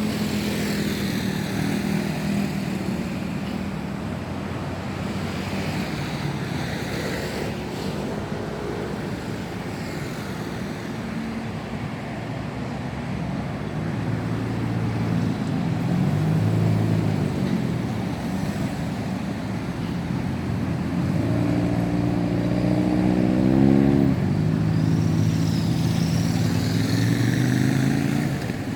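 Road traffic passing: car and motorcycle engines, rising and falling in pitch as vehicles go by, with one engine climbing in pitch as it speeds up about three-quarters of the way through.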